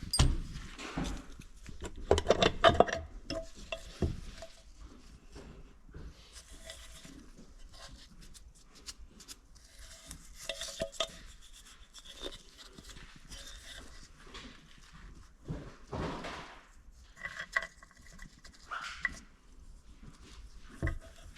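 Metal tools and engine parts clinking, tapping and scraping as they are handled during an engine teardown, with a few short ringing clinks and a cluster of sharp knocks about two seconds in.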